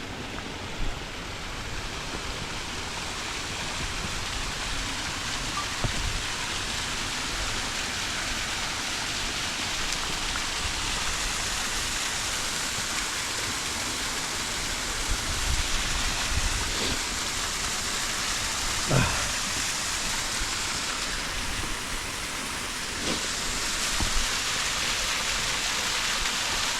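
Steady rushing of water from a small cascade running beside the trail, with a few soft knocks in between.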